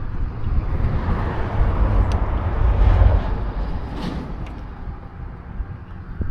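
Wind buffeting the microphone in uneven gusts, a heavy low rumble that swells to its loudest about 3 seconds in and then eases off.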